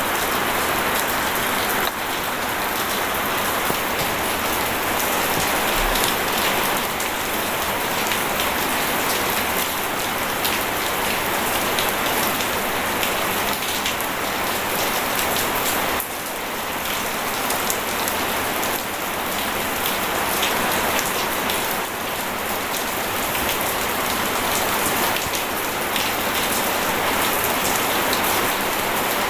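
Steady rain and running water: a dense, even patter and rush with no pauses.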